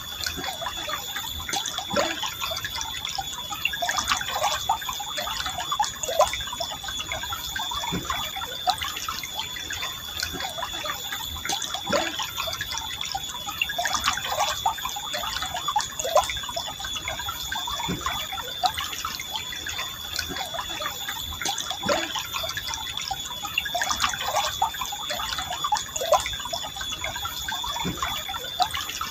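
Forest river water flowing gently, a steady rush broken by frequent small gurgles and drips, with a steady high-pitched tone alongside.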